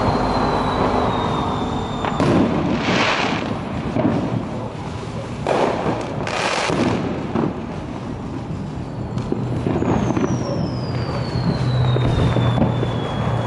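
Aerial firework mortar shells going off: a run of booms with crackling in the first seven seconds, then a long falling whistle near the end.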